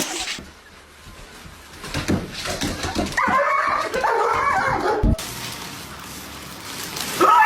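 A dog whimpering: a run of high, wavering whines starting about three seconds in and lasting about two seconds, cut off suddenly.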